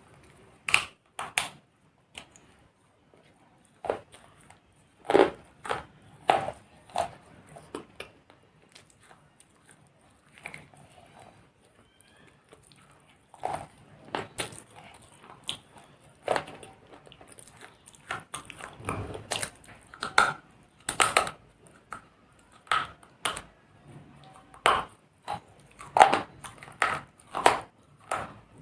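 Dry clay pot pieces being bitten and crunched between the teeth: irregular sharp crunches, some in quick clusters, with short pauses between. The clay is bitten dry, not wetted, which gives the full crunch.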